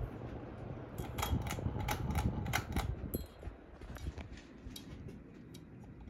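Hampton Bay Carousel ceiling fan (CEI) running with a steady low hum, overlaid by a quick run of sharp clicks about a second in, then scattered single ticks.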